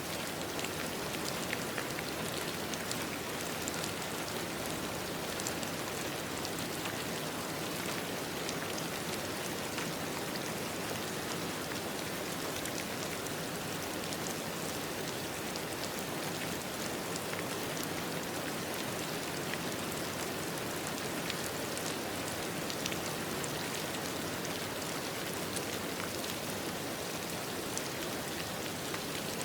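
Steady rain falling on a surface, with fine scattered drop patter over an even hiss.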